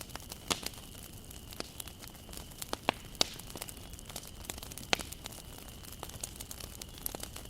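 Wood bonfire burning, with irregular sharp crackles and pops over a low steady hiss.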